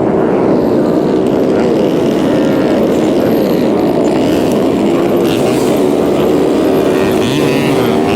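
Many small scooter and mini-bike engines running together, a steady drone with several pitches wavering slightly over one another.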